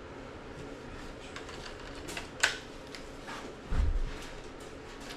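Scattered small clicks and clinks of hand tools and parts being handled during an engine teardown, with one sharp click about halfway and a low thump near the end.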